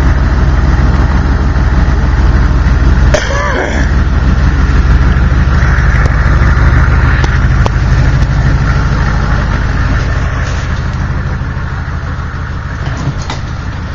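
Diesel truck engine idling steadily close by, with a brief rustle about three seconds in; it gets slightly quieter over the last few seconds.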